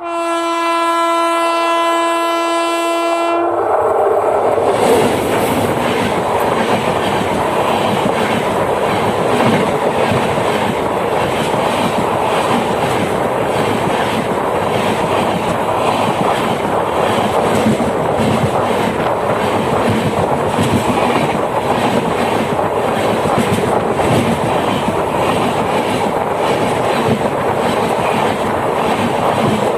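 Diesel goods train sounding one long steady horn blast, lasting about three and a half seconds. The train then passes close by with loud continuous rolling wheel noise and a regular clickety-clack of wheels over the rail joints.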